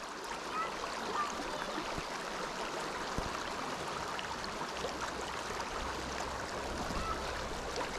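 Creek water running steadily over rocks, with a few faint low knocks.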